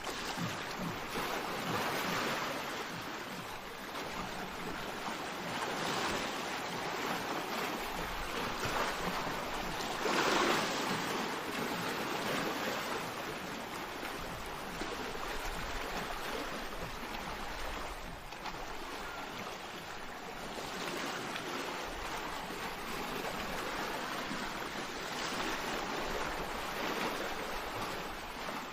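Sea waves breaking and washing in: a steady surf hiss that swells and eases every few seconds, with the biggest swell about ten seconds in.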